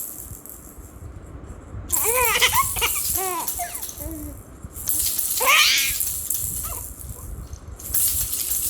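Baby rattle shaken in three bursts of a few seconds each, with a young baby laughing out loud during the shaking.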